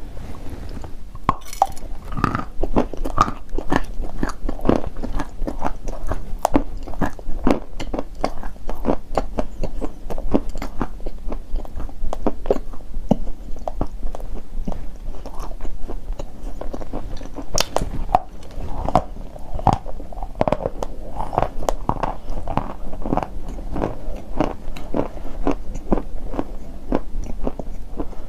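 A person biting and chewing pieces of chalk, with rapid, dense crunching that starts about a second in and keeps going.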